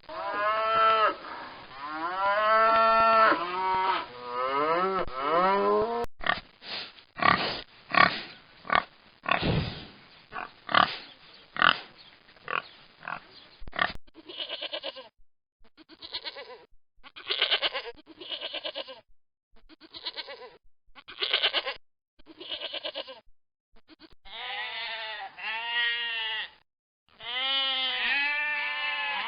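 A sequence of farm-animal calls: pitched, wavering calls at first, then a run of short grunts or snorts from about six seconds in, then repeated short pitched calls in quick groups from about fourteen seconds on.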